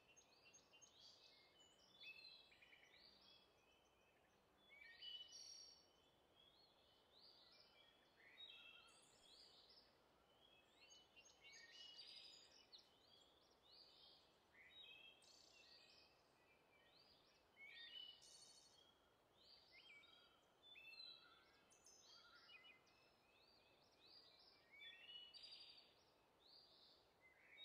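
Faint songbirds calling and singing: a steady scatter of short, high chirps and warbling phrases over a faint outdoor hiss.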